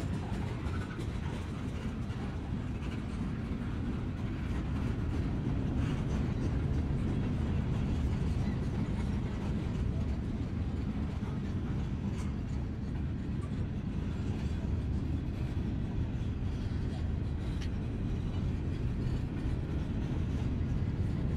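Freight cars, covered hoppers and then gondolas, rolling past on the rails with a steady low rumble and a few faint clicks.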